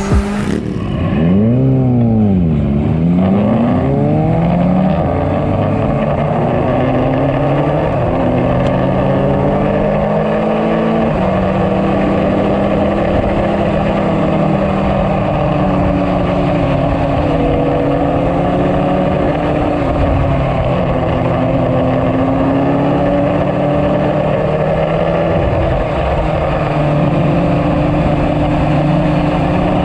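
Kawasaki ZX-10R sport bike's inline-four engine heard from onboard at a track day. Its revs fall and climb again as the bike rides through corners, then hold and step between levels with the gear changes.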